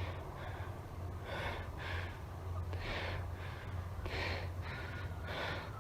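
A man breathing hard through the mouth, a pair of in-and-out breaths about every second and a half, over a steady low hum.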